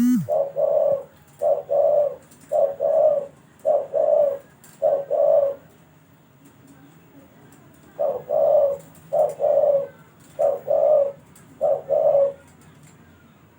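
Dove cooing in a repeated series of low, paired coos, pausing for a couple of seconds midway, then another run of coos that stops shortly before the end.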